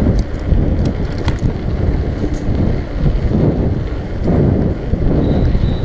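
Wind buffeting the microphone of a bike-mounted action camera while riding a mountain bike, a loud, uneven rumble. A few sharp clicks and rattles from the bike come in the first second and a half.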